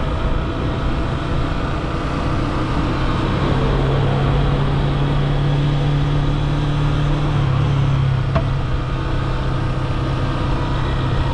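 Yamaha FZ S V3 motorcycle's 149cc single-cylinder engine running steadily while riding, with road and wind noise; the engine note holds level and steps in pitch about seven seconds in. A single sharp click about eight seconds in.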